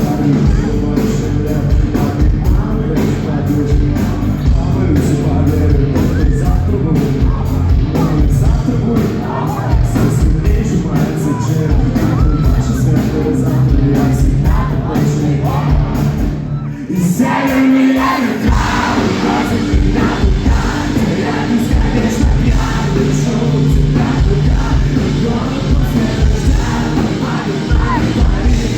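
A rock band playing live with singing and a crowd of fans. About seventeen seconds in, the band drops out for a moment, then comes back in.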